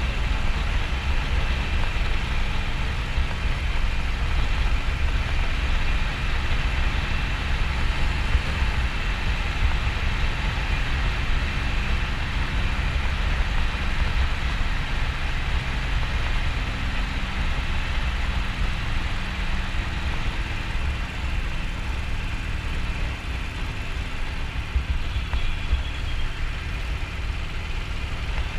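Harley-Davidson XL1200N Nightster's air-cooled 1200 cc V-twin running steadily, mixed with a steady rush of wind and road noise.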